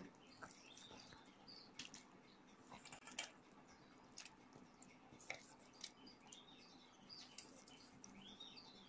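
Near silence, with faint bird chirps repeating in the background and a few faint clicks.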